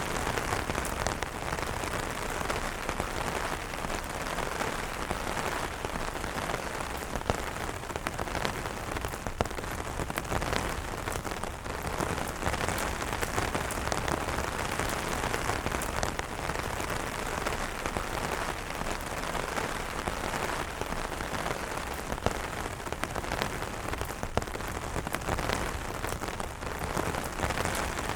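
Steady heavy rain falling on an umbrella: a constant dense hiss made of countless drop impacts, with a few louder single drops standing out now and then.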